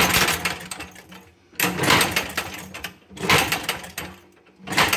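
Maytag washing machine two-stroke gas engine firing on a cold start in short bursts of rapid beats, roughly every second and a half, with lulls between. It is not settling into a steady run and is close to dying out.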